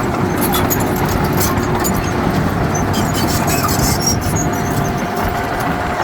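Heavy diesel earthmoving machinery running steadily under load, with a faint steady whine over the engine noise.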